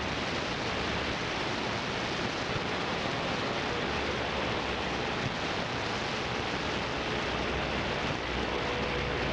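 Steady hiss of radio static from a CB radio receiver with its squelch open, heard between transmissions.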